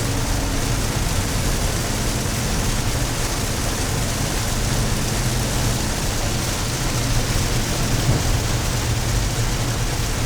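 Steady rain and wet-road noise heard from inside a moving car's cabin, with a constant low rumble from the car and road under an even hiss of rain.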